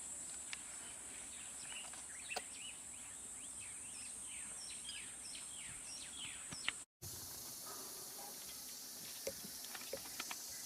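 Steady high-pitched insect buzzing, with a run of short, falling bird call notes in its middle. About seven seconds in, the sound cuts abruptly to a steadier high hiss of insects with a few faint ticks.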